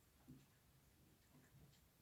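Near silence with faint, scattered soft taps and light ticks of a hand-held drawing tool working on paper.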